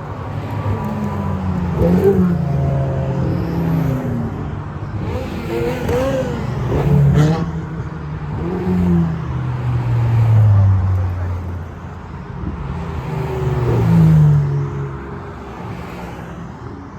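Ferrari sports cars driving past one after another, each engine note swelling and falling in pitch as it goes by, about five passes in all.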